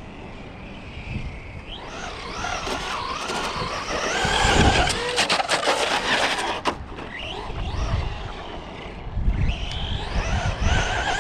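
Electric RC cars' motors whining, rising and falling in pitch as they accelerate and slow, with tires skidding on pavement. A quick run of sharp clacks comes about five to six and a half seconds in.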